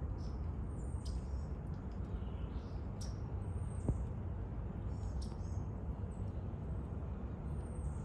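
Small backyard birds calling with short, very high, thin notes about every two seconds, among faint chips and ticks, over a steady low rumble. A single sharp click comes about four seconds in.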